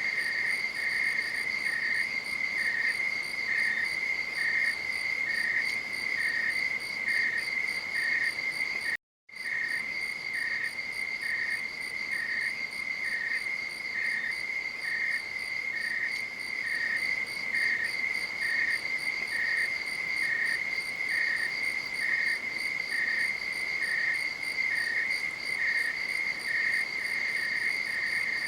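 Night insects, cricket-like, trilling continuously at a high pitch, with a second, slightly lower chirp pulsing a little under twice a second. The sound cuts out completely for a split second about nine seconds in.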